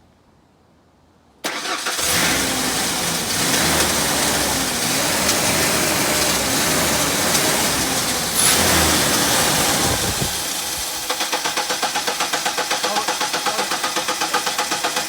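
Ford Ranger pickup's swapped engine cranked by the starter and catching, running unevenly for several seconds. About ten seconds in the low rumble drops out, and a rhythmic starter cranking follows at about five pulses a second, from a starter the owners then judge bad.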